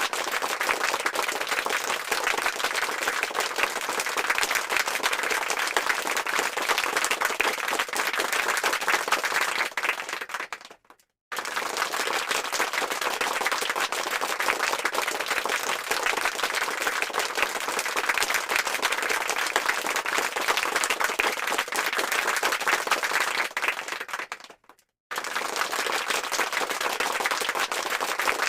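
Crowd applause, a dense clatter of many hands clapping. It fades out and stops briefly twice, about eleven and twenty-four seconds in, each time starting again within a second.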